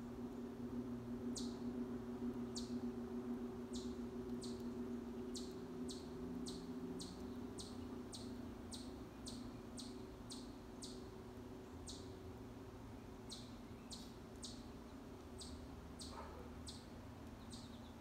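A small songbird chirping over and over, short high chirps about one or two a second, over a steady low hum that weakens about halfway through.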